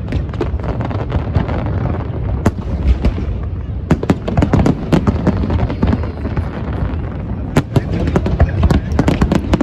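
Fireworks display going off: many sharp bangs in quick succession over a continuous low rumble of shell bursts, busiest toward the end.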